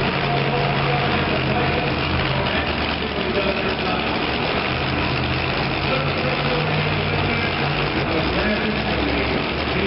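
Super modified two-wheel-drive pulling truck's engine idling steadily, over the hubbub of an arena crowd.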